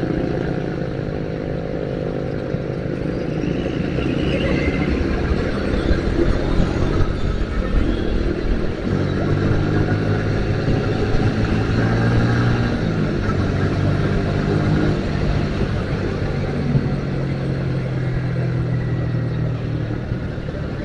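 Yamaha Vixion's single-cylinder engine running while the motorcycle rides along, its note shifting as the rider works the throttle, over constant wind rush on the helmet microphone.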